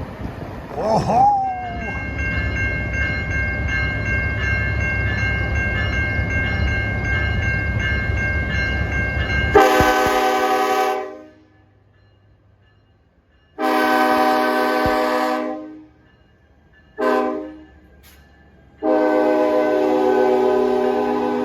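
Steady low rumble of a train with a few high steady tones, then a locomotive air horn sounding the grade-crossing signal: two long blasts, a short one and a final long one, each a chord of several tones.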